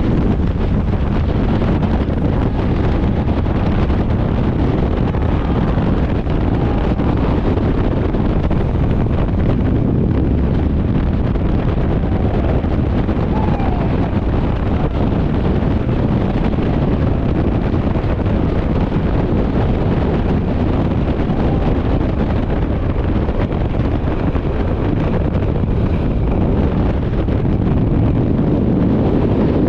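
Loud, steady wind rush buffeting the microphone, as in a skydive's freefall.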